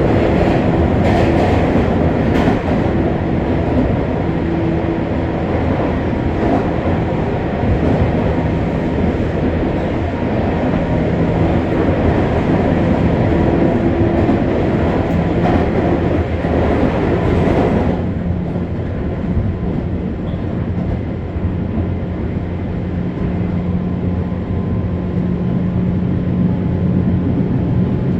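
Running noise inside a 201 series electric commuter train at speed: steady wheel-on-rail rumble with faint clickety-clack over the rail joints and steady humming tones. About eighteen seconds in, the higher hiss drops away suddenly, leaving a duller rumble.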